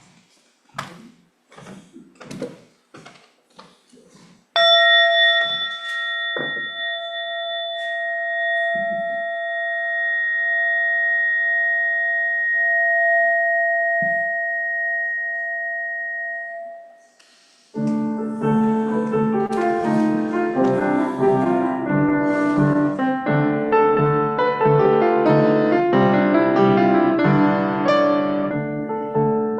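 A few faint knocks, then a bell struck once about four and a half seconds in, ringing with a slightly wavering tone that fades out over about twelve seconds. About eighteen seconds in, piano music begins and continues.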